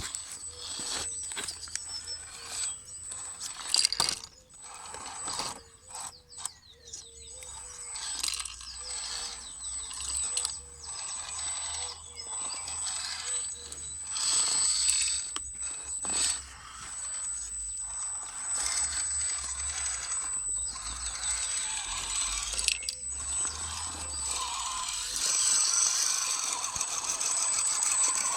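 Scale RC crawler truck driving over rough ground: irregular clicks and crunches of the tyres and chassis on rock, over a faint steady high whine from the electric drivetrain, growing busier near the end.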